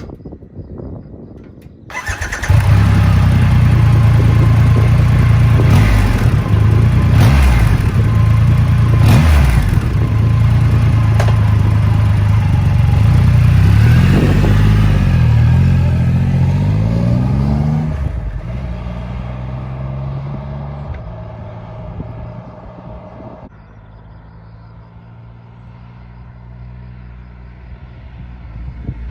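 Triumph Rocket 3 R's 2,458 cc inline three-cylinder engine and exhaust come in loud about two seconds in, rising and falling in pitch as the throttle is worked. The sound drops off at about 18 s and grows quieter still near the end.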